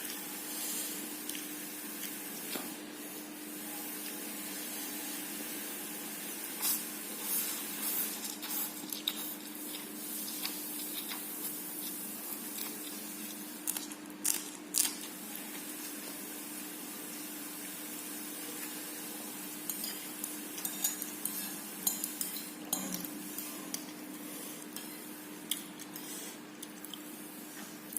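Cutlery clinking and scraping against a plate in scattered clusters of short clicks, as fried instant noodles are mixed with sauce. A steady faint low hum runs underneath.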